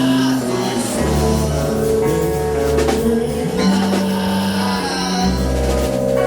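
Live band music with sustained bass notes changing every second or so, guitar, and tambourine-like percussion, played loud.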